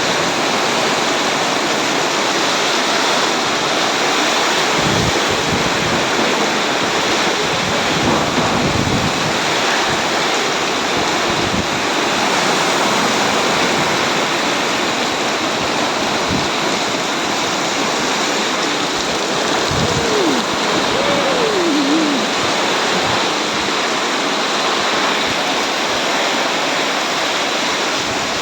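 Heavy rain pouring down on a street, a steady dense hiss, with a few low rumbles mixed in.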